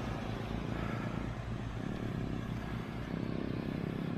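Steady low rumble of wind on the microphone during a bicycle ride, with an even hiss of road noise.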